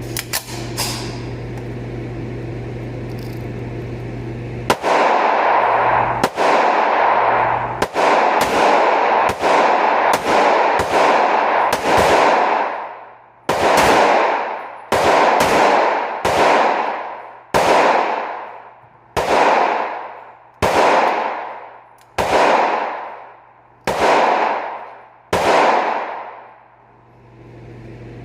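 Gunshots, most likely from handguns, fired one at a time in a long steady string. About twenty shots come roughly half a second to a second and a half apart, each with a long echoing tail, after a few seconds of steady low hum.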